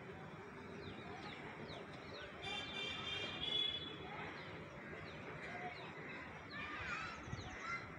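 Birds chirping: many short chirps that slide down in pitch, with a longer held call lasting about a second near the middle.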